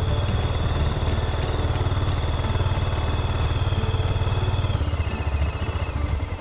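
Honda CB400SS air-cooled single-cylinder engine idling, its exhaust pulsing evenly.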